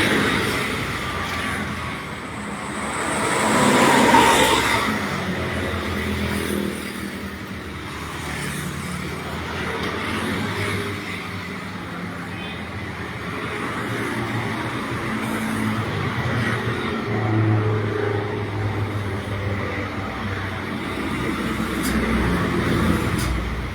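Motor vehicles running with road traffic: a vehicle passes, loudest about four seconds in, over a steady low engine hum.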